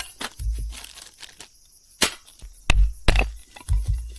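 Firewood being broken and handled to prepare a campfire: several sharp, irregular cracks and knocks of wood, some with a dull thump beneath.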